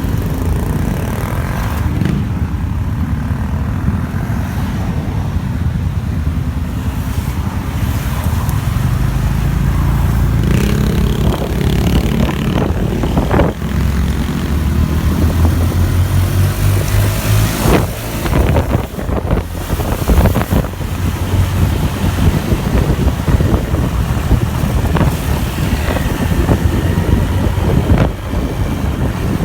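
Motorbike engine running under way through city traffic, heard from the bike. Its low hum climbs as it speeds up about ten seconds in and again around sixteen seconds.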